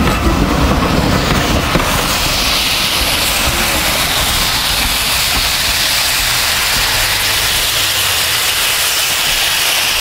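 Steam train running, with low rumble and clatter for the first couple of seconds, then a steady hiss of steam.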